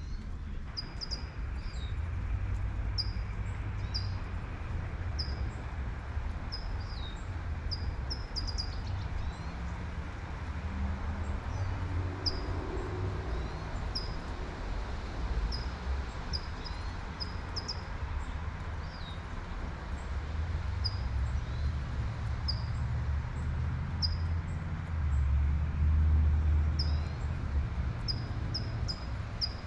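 Light rain falling over a low traffic rumble that swells near the end as a car passes, while a bird repeats a short, high chirp about once a second.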